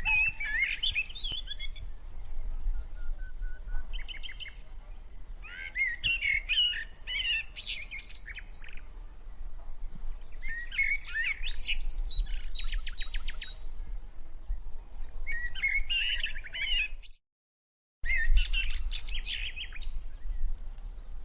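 A songbird singing: short warbling, trilling phrases repeated every few seconds, over a steady low rumble. The sound cuts out completely for about a second near the end.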